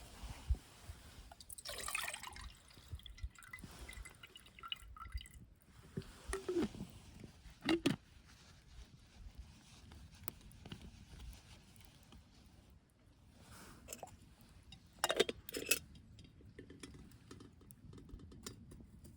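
Liquid being poured and moved about, with irregular handling noises and a few sharp clicks.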